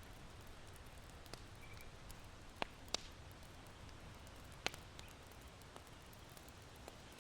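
Charcoal embers in an irori hearth crackling, with a few sharp pops (the loudest three about two and a half, three and four and a half seconds in) and scattered small ticks, over a soft, steady hiss of wind.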